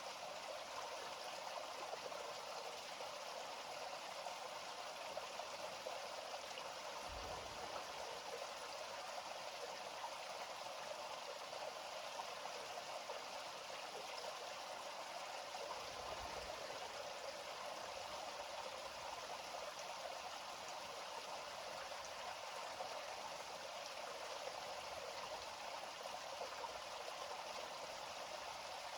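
River water flowing: a steady, even rush of water with little low rumble.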